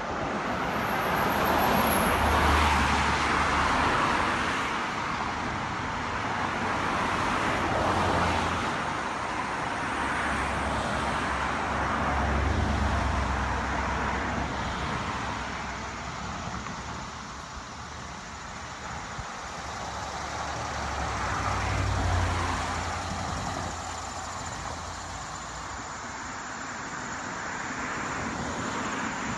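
Road traffic: cars passing one after another, each a rushing tyre-and-engine noise that swells and fades, with louder passes about two, eight, twelve and twenty-two seconds in.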